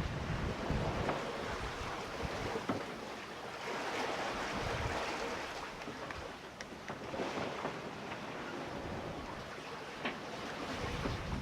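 Water rushing and splashing along the hull of a sailboat under way, with wind buffeting the microphone; the noise swells and eases in slow waves, with a few light knocks.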